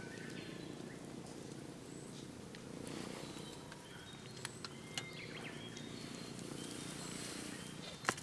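Campfire crackling with scattered sharp pops over a steady low hum.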